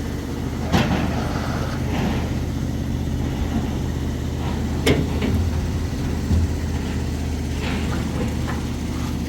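An engine running steadily with a low, even hum, with a sharp knock about a second in and another about halfway through.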